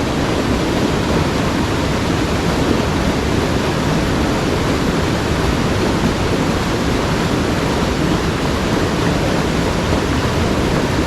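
Steady rush of fast-flowing mountain stream water.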